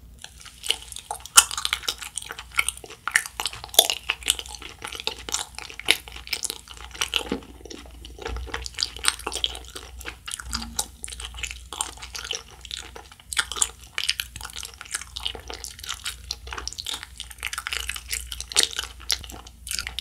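Close-up wet chewing of a Planet Gummi globe-shaped gummy candy: a steady run of sticky, squishy smacks and clicks from the mouth as the jelly is worked between the teeth.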